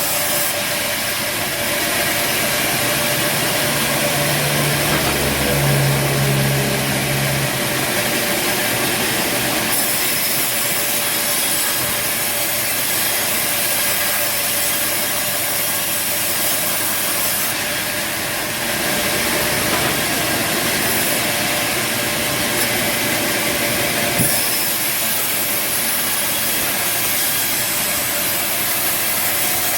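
Bandsaw sawmill running steadily, its motor droning while the blade saws through timber, with a few abrupt changes in the sound.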